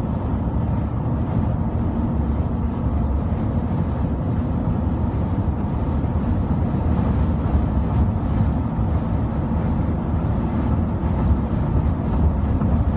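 Steady low rumble of highway driving heard from inside a moving car, road and engine noise amid traffic of big trucks.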